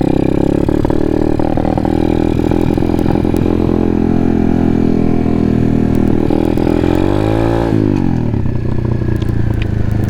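Apollo pit bike's small single-cylinder engine running under throttle while riding, holding a steady high pitch, then briefly rising and falling in pitch about three-quarters of the way through and running on at a lower pitch.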